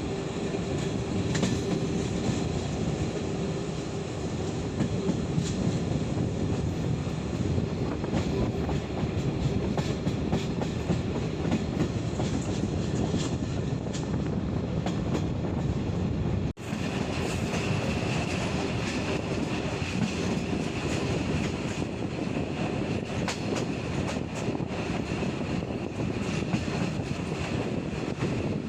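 Passenger train carriage running along the track, heard through an open window: steady rolling rumble with wheels clicking over the rails. The sound cuts out for an instant a little past halfway, then carries on with a faint high whine above the rumble.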